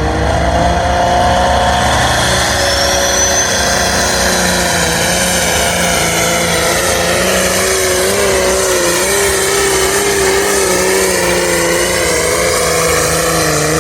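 Turbocharged, water-injected 510-cubic-inch pulling tractor engine running flat out under load as it drags the sled down the track. A high turbo whistle rises over the first few seconds, and the engine's pitch wavers up and down through the run.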